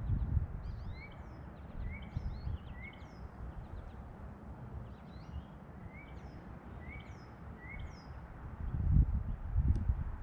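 Several small birds calling: a short chirp repeats about every second and a half, with many quick, high, down-slurred whistles between. A low rumbling noise runs under the calls and swells loudest about nine seconds in.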